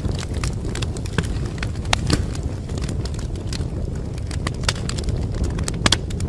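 Wood fire burning in a fireplace: a steady low rumble of flames with irregular sharp crackles and pops, two louder pops close together near the end.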